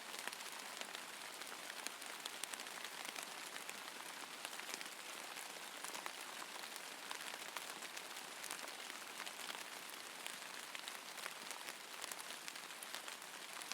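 Steady rain falling, an even hiss dotted with many small crisp drop impacts.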